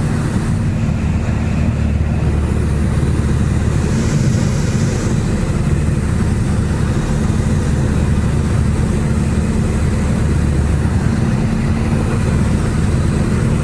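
Small plane's piston engine and propeller droning steadily in cruise flight, heard from inside the cockpit.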